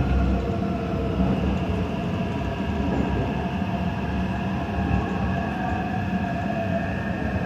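Taipei Metro train running between stations, heard on board: a steady rumble of wheels on track with the electric motors' whine held on a few steady tones.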